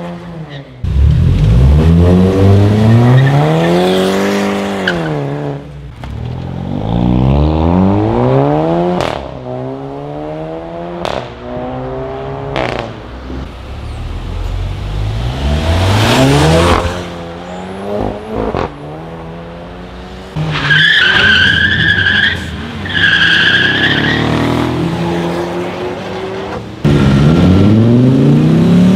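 Several cars accelerating past one after another, their engines rising and falling in pitch through the revs, with abrupt changes between passes. Midway, two short high squeals stand out; near the end a loud engine begins climbing in pitch.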